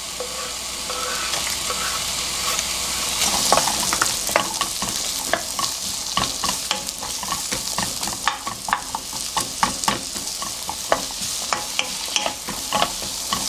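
Diced onion and chopped Cheongyang green chilies frying in hot oil in a nonstick wok, the sizzle swelling about three seconds in. A wooden spatula stirs them, clacking and scraping on the pan a few times a second.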